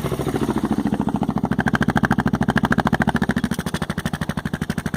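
Suzuki DR's single-cylinder engine running through a Leo Vince slip-on exhaust with the baffle removed, each firing pulse clearly separate. It revs up briefly about a second and a half in, then settles back to idle.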